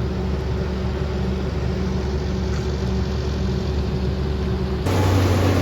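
SANY excavator's diesel engine running steadily. About five seconds in, the sound changes abruptly to a louder, deeper engine note.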